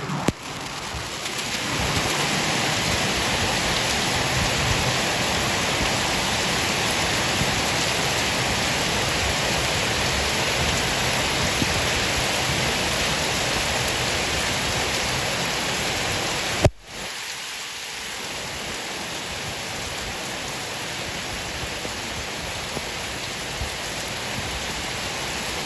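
Heavy rain falling steadily, a dense even hiss. About 17 seconds in it breaks off with a sharp click and comes back a little quieter.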